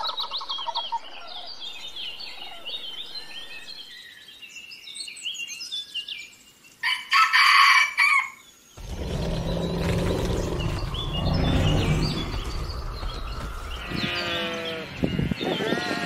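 Sandhill cranes calling with higher bird chirps, then a rooster crowing loudly about seven seconds in. After it comes a noisier stretch with low animal calls.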